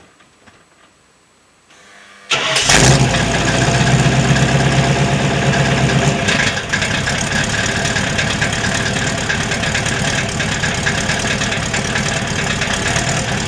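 A 418 ci stroker small-block Ford V8, built on a 351 Windsor block, cranks briefly and catches about two seconds in, then runs at idle through 2.5-inch dual exhausts, its note changing about six seconds in. The valves inside the DynoMax VT mufflers rattle at idle, which DynoMax's techs put down to the lack of an H-pipe or X-pipe crossover: exhaust scavenging pulls the valves back and makes them clack.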